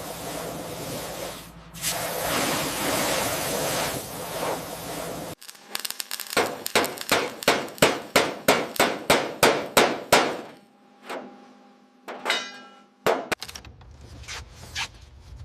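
Steady rushing noise that cuts off after about five seconds. Then comes a rapid run of sharp knocks, about three a second for some five seconds, like hammering, followed by a few scattered clicks and a short ringing tone near the end.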